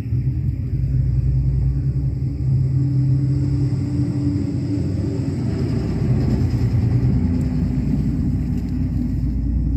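Deep, steady engine rumble of a large road vehicle.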